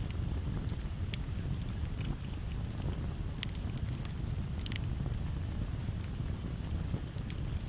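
Campfire crackling, with scattered sharp pops over a steady low rumble of wind, and a steady high trill of crickets.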